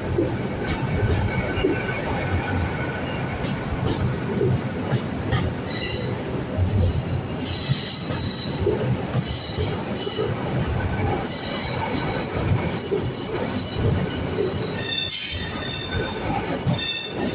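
LNER Azuma Class 800 bi-mode train pulling out of the station on its diesel engines, with a steady low rumble. From about six seconds in, its wheels squeal repeatedly in high tones as they grind through the curved track.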